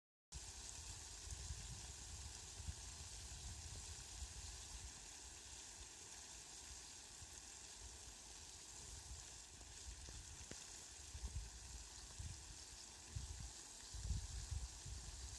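Faint outdoor nature ambience: an even hiss with irregular low rumbling gusts. It starts abruptly after a moment of silence.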